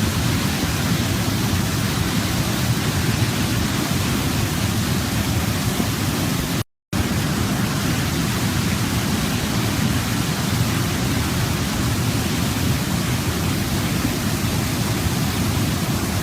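Steady rushing of a waterfall, heaviest in the low range. About seven seconds in, it cuts out completely for a fraction of a second, then resumes.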